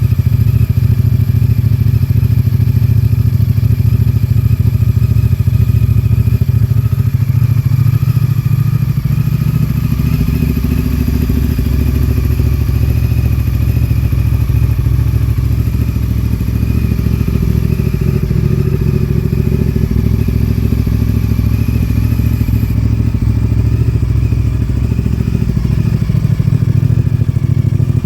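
Honda VTR1000's V-twin engine with a Yoshimura aftermarket exhaust, running steadily at a low, even speed with a deep exhaust rumble.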